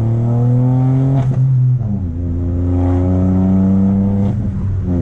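Chevrolet Onix 1.0 turbo three-cylinder engine with a downpipe and sport exhaust, accelerating hard. The pitch climbs, drops at a gear change about two seconds in, then climbs again before dropping near the end. A short sharp exhaust pop comes about a second in and again about four seconds in.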